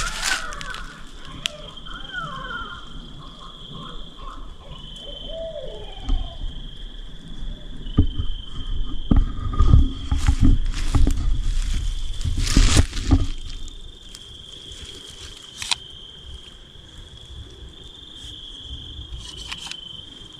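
A steady high-pitched trill of night-singing insects in woodland, with a few faint wavering calls in the first several seconds. Between about 8 and 13 seconds in, close rustling and knocking sounds stand out over the insects.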